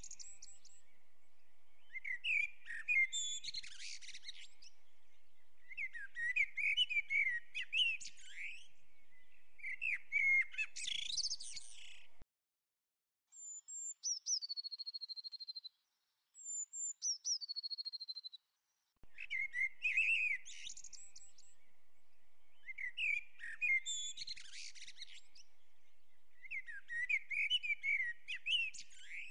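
Bird song: bursts of quick chirping, twittering phrases every few seconds. Around the middle they break off for two falling whistled notes, then the chirping phrases resume.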